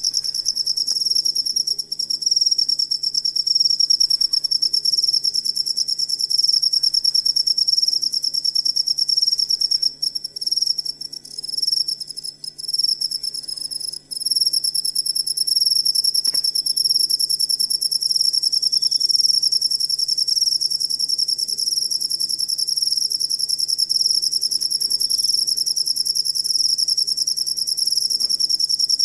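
Crickets chirping in a continuous, high, rapidly pulsed trill. It breaks up into a stutter for a few seconds about a third of the way in, then runs on steadily.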